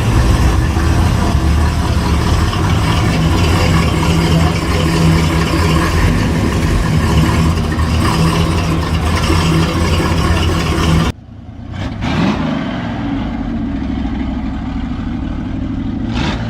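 Loud car engine running close by with a deep, steady rumble. About eleven seconds in it cuts off abruptly to a quieter engine sound with a brief rise in pitch.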